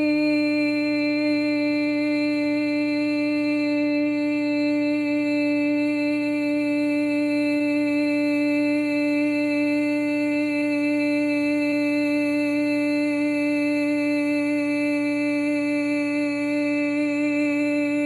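A singer's voice holding one long, unbroken note at a steady pitch: the kidney healing sound, a Chinese-medicine vocal exercise.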